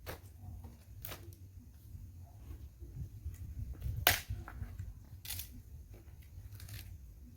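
Wood bonfire crackling, with a handful of sharp irregular pops over a low rumble; the loudest pop comes about four seconds in.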